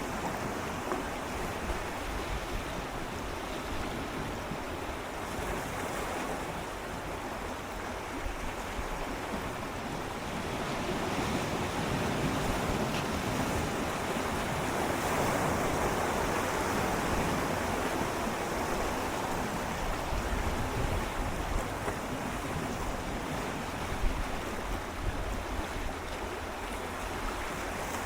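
Gentle sea waves swirling and lapping against shoreline rocks, swelling louder for about ten seconds in the middle before easing again, with one sharp splash or knock about four seconds before the end.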